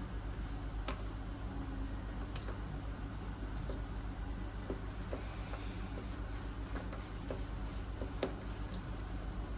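Small scattered clicks and ticks of a tiny Phillips screwdriver turning the battery-holder screws into a plastic car key fob, the sharpest about a second in and near the end, over a steady low hum.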